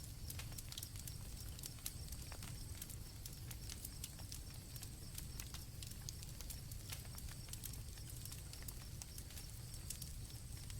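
Campfire crackling with many small, irregular pops over a low, steady rumble of the flames, while crickets chirr steadily in high, thin tones.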